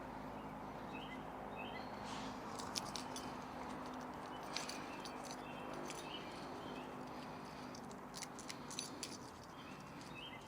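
A small knife blade picking and scraping at a Blackbeard fire plug to fluff up its tinder: a run of light scratches and clicks, with a few sharper ones. Faint bird chirps come through now and then.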